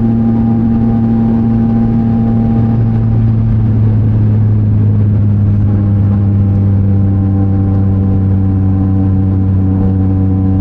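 Yamaha MT-09 SP's inline three-cylinder engine running through a Mivv X-M50 aftermarket exhaust while the bike cruises at fairly steady revs, the pitch shifting slightly about halfway through.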